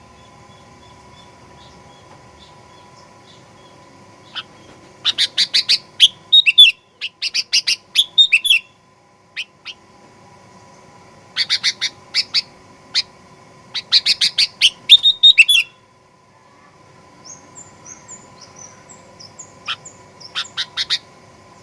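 Sooty-headed bulbul calling in fast clusters of sharp chirps, about four bursts with short pauses between them. Softer, higher short notes follow near the end.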